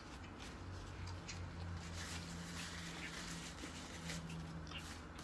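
Close-up chewing of fried whiting: a run of small wet mouth clicks and smacks, with a low hum through the first few seconds.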